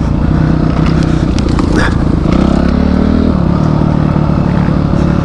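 Motorcycle engine running under load on an off-road trail; its pitch climbs from about two seconds in, then drops back a little after three seconds. Scattered clicks and scrapes are heard over the engine.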